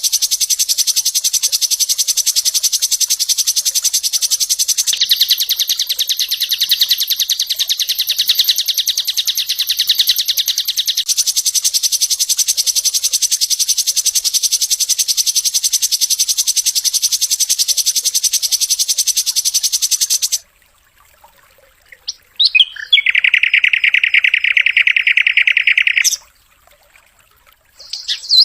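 Sikatan londo singing a long, very fast rattling trill of the 'tembakan' kind prized by bird keepers, sitting high in pitch and dropping lower for several seconds around five to eleven seconds in. It breaks off about twenty seconds in, followed by a shorter, lower trill and a brief call near the end.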